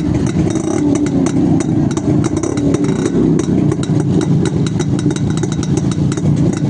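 Yezdi Roadking two-stroke motorcycle engine running steadily, with a rapid, uneven crackle of clicks over its note.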